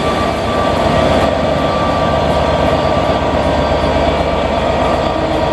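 Train running steadily, a loud, even noise with a faint high whine held through it.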